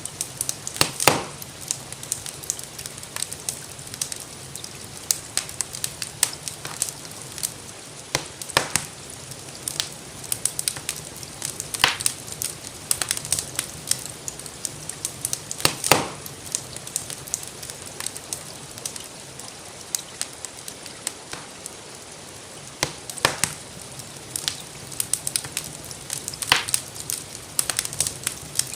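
Wood fire in a fireplace crackling, with many small ticks and a handful of louder sharp pops spread through, over a steady hiss of rainfall.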